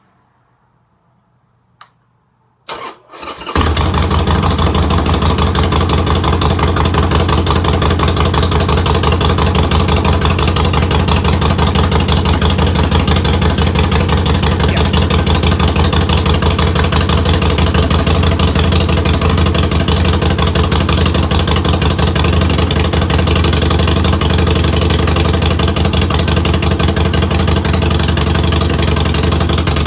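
Harley-Davidson Sportster 1200's air-cooled V-twin cold-starting after long storage: a click, a brief burst of starter cranking, then the engine catches at once and runs loud and steady.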